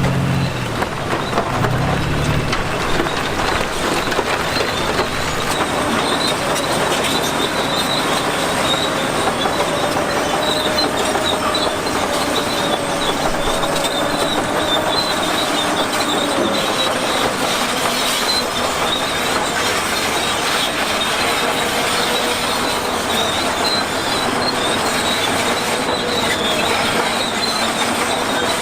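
Steel crawler tracks of a bulldozer clanking and squealing steadily as the machine travels, with a thin wavering high-pitched squeal over a continuous grinding rattle.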